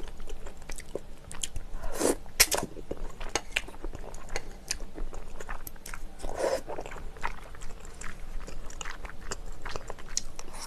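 Close-miked eating of spicy chicken: steady chewing with crunching and wet mouth clicks, a few louder smacks about two seconds in and again past the middle.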